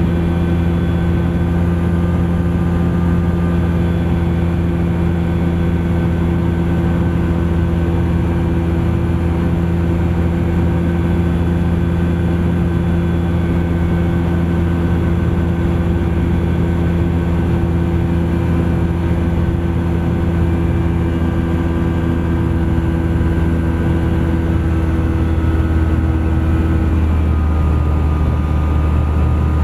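Thruster ultralight aircraft's engine and propeller running steadily in flight, with a steady droning note that drops slightly about three seconds before the end.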